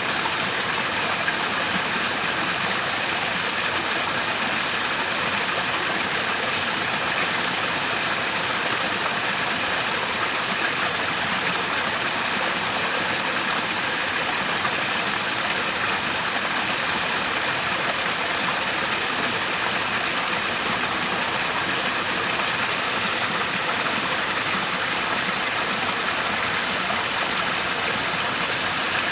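Waterfall: water falling and rushing in a steady, unbroken stream of noise, strongest in the middle and upper range.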